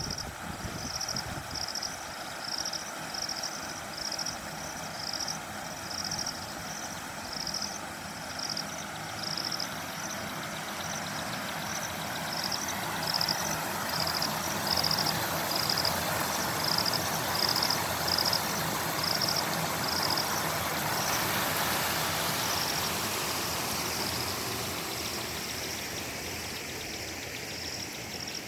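Rain falling steadily, growing heavier past the middle and easing a little near the end. A high chirping call repeats about once or twice a second throughout.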